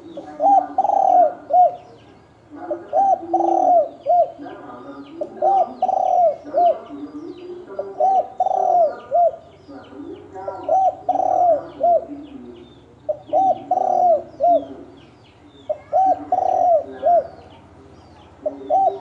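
Spotted dove cooing, a three-part coo phrase repeated about every two and a half seconds. These are the wild male's territorial 'thổ đồng' coos, used to provoke rival males. Small birds chirp faintly behind.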